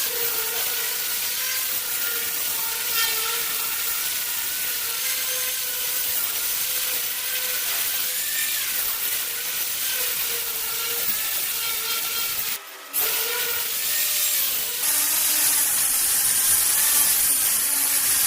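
Handheld electric power tool sanding and cleaning the steel door's surface to prepare it for painting, running with a steady motor whine whose pitch wavers as it is pressed against the metal. It stops briefly about two-thirds of the way in, then starts again louder, with a higher whine.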